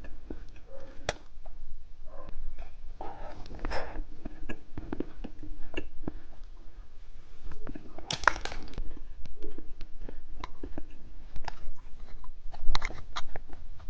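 Candy packaging handled and unwrapped: a plastic or foil wrapper crinkling, with many small clicks and taps. The loudest crinkle comes about eight seconds in, and another cluster of clicks near the end.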